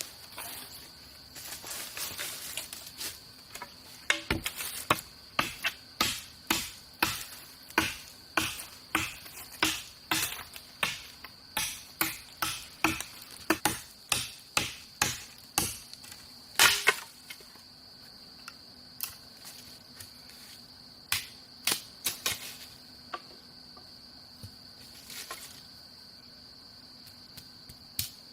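Steady high-pitched insect buzz, like crickets, with a run of sharp knocks, about two a second, starting about four seconds in. The knocks thin out to a few scattered ones in the second half.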